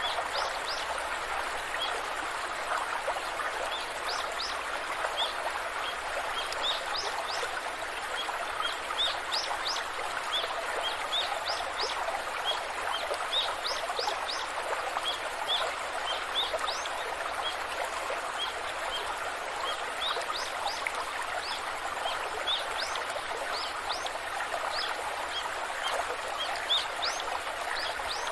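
Rushing waterfall, a steady hiss of falling water, with birds chirping again and again over it in short, high notes.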